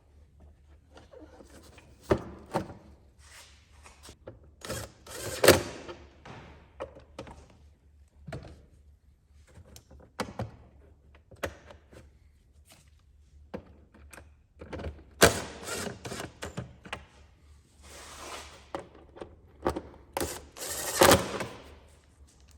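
Irregular knocks and clunks of hand work: parts and tools being handled and set down, with louder clusters of clatter about five seconds in, around fifteen seconds and again near the end.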